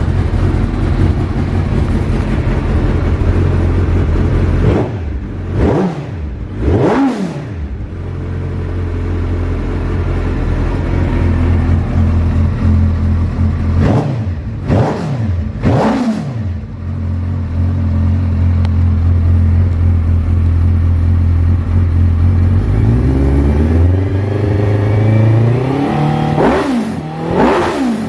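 Suzuki Hayabusa GSX1300R inline-four idling through a Wyvan aftermarket muffler, with quick throttle blips that rise and fall sharply. It is blipped twice about six seconds in and twice again about fifteen seconds in. The idle then climbs slightly, followed by a few more quick blips near the end.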